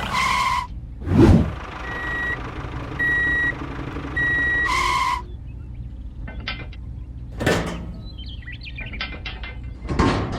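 Vehicle reversing alarm beeping three times, about a second apart, over a low engine rumble. Longer tones come just before and just after the beeps, a short whoosh about a second in, and scattered light clicks in the second half.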